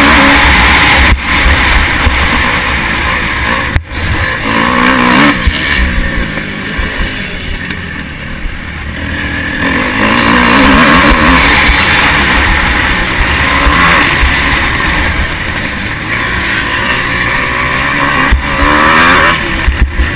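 Motocross bike engine heard from an onboard camera, revving hard and repeatedly climbing and dropping in pitch through gear changes, with heavy wind rumble on the microphone. It eases off for a few seconds midway before pulling hard again.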